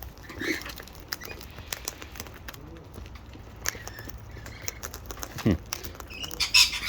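Parrots cracking and munching seed from a container: a run of irregular sharp beak clicks and crunches, with a few short calls, the loudest near the end.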